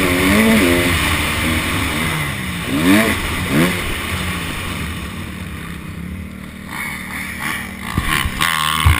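Honda CRF250 four-stroke single-cylinder dirt bike engine revving hard, its pitch climbing in quick rises near the start and again about three seconds in, then falling back to a lower, quieter running. There are a few knocks near the end.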